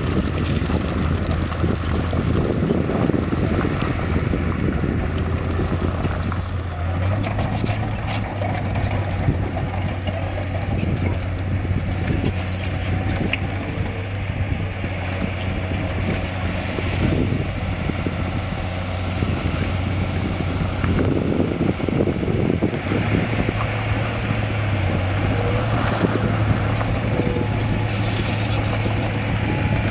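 Heavy diesel engine of an earthmoving machine running steadily under load, its note stepping up slightly about seven seconds in and again near the end, with scattered knocks and clatter over it.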